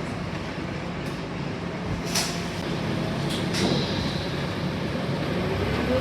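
Scania K230UB city bus's five-cylinder diesel running steadily, heard from inside the passenger cabin, with a short sharp hiss about two seconds in and a brief click and short beep a little later. Near the end a whine starts rising in pitch and the sound grows louder as the bus accelerates.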